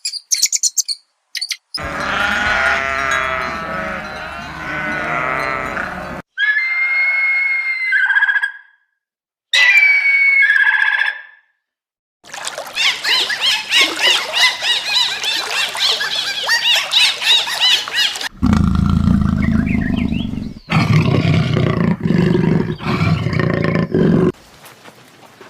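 A run of different animal calls cut one after another: pitched calls that bend up and down, then two high, even cries, then a dense stretch of many short high calls, and near the end several low, loud calls.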